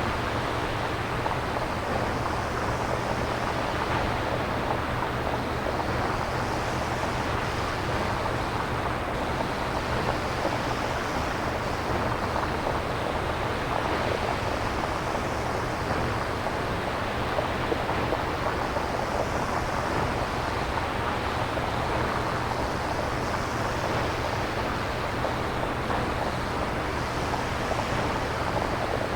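Synthesized nature-style noise: a steady rushing hiss that swells gently about every four seconds, over a low steady hum.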